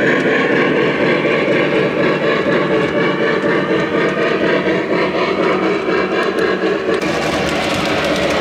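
Lionel Legacy 4-8-4 Northern O-gauge model steam locomotive running, its onboard sound system playing steam locomotive running sounds over the rumble of the wheels on the track. A hiss joins about seven seconds in.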